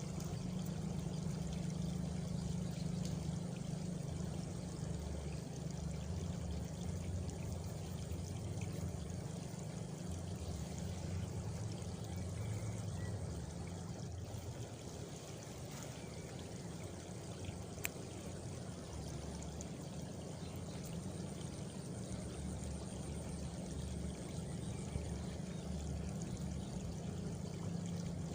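Steady rush of running water in a countryside night ambience, with a faint high cricket trill partway through and a single sharp tick about two-thirds of the way in.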